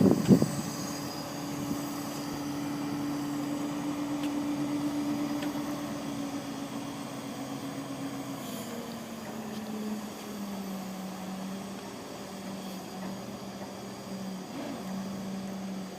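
A loud clatter right at the start, then an engine running steadily; about eight seconds in its pitch drops a step, as if it slows, and it carries on at the lower speed.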